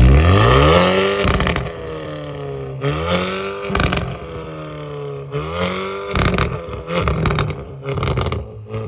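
Car engine accelerating hard through the gears: the note climbs steeply, breaks with a burst of crackling at each gear change, then climbs again, several times over.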